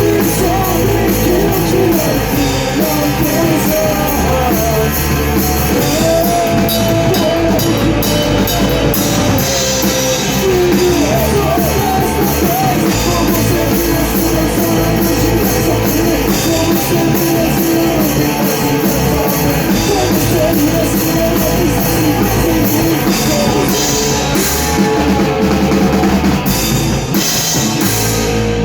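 Rock band playing a song live: drum kit and guitar playing loudly and continuously.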